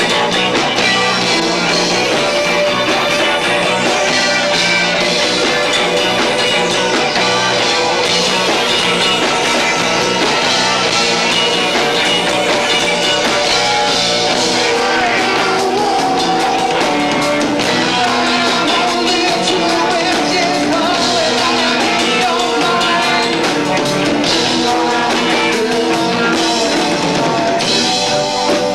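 A live rock band with two drummers playing a loud, frantic song, guitar, bass and drums together with a voice singing, picked up by a camcorder's own microphone and sounding low-fi.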